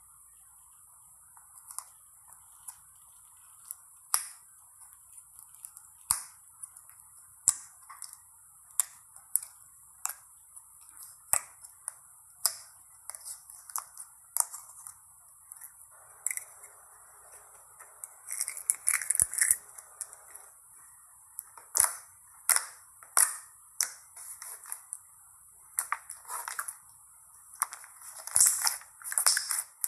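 Slime being squeezed and pressed by hand, giving a string of sharp popping clicks about once a second, with denser crackly squishing stretches in the second half.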